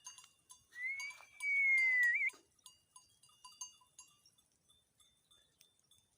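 One long high whistle, held about a second and a half before falling slightly and ending in a short wavering, with faint tinkling like small bells throughout.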